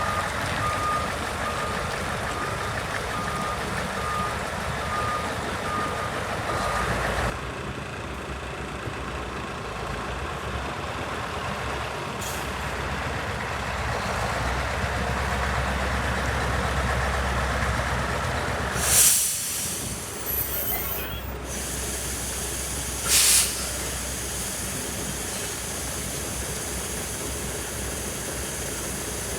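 Scania 143H 470 truck's V8 diesel running steadily, with a reversing beeper sounding rapidly for about the first seven seconds. Two short, loud bursts of air hiss come about two-thirds of the way through, typical of the truck's air brakes.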